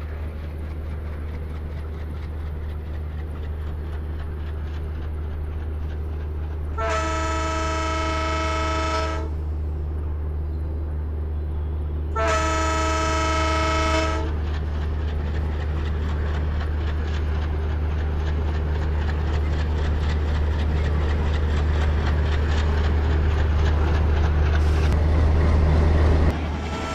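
Approaching train: a steady low rumble growing slowly louder, with two long horn blasts of about two seconds each, about seven and twelve seconds in. The rumble cuts off suddenly just before the end.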